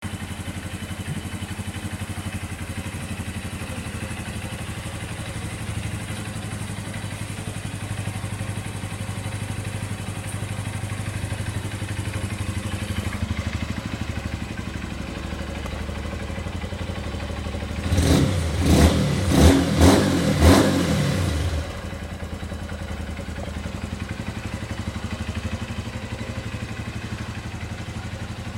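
Honda Fortune Wing 125 scooter engine breathing through an aftermarket Realize muffler, idling steadily. About two-thirds of the way through it is blipped up about four times in quick succession, then settles back to idle.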